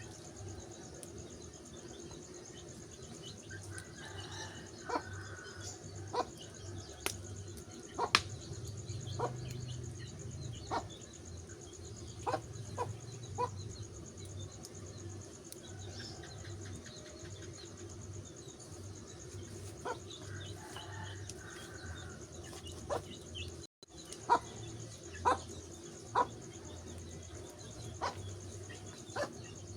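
Wood fire crackling: sharp, irregular pops and snaps from burning wood over a steady low background.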